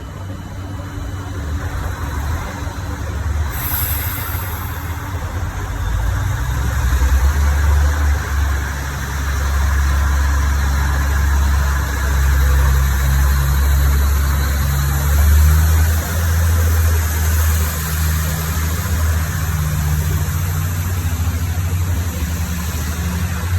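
Diesel engines of a Limited Express Hida train running at the platform, a deep steady hum that grows louder over the first several seconds and then holds. A short hiss about three and a half seconds in.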